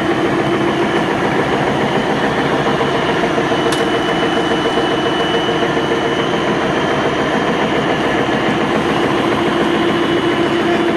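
Pet food extruder production line running: a loud, steady machine drone with an even hum. There is one brief click a little under four seconds in.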